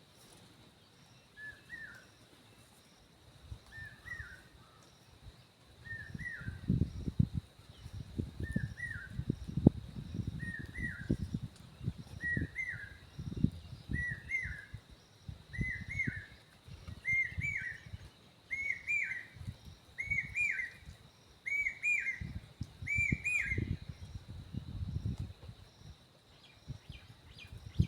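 A bird calling one short note over and over, about once every second and a half, the calls growing louder and a little higher in pitch before stopping a few seconds before the end. Low rumbling and rustling noise runs beneath the calls from about six seconds in.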